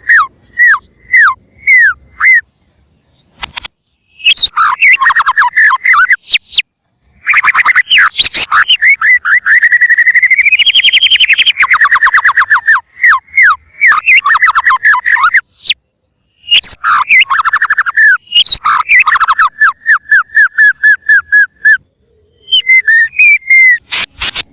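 White-rumped shama (murai batu) singing loudly: bursts of clear, downslurred whistles and fast trills of many rapid notes, in phrases separated by short pauses.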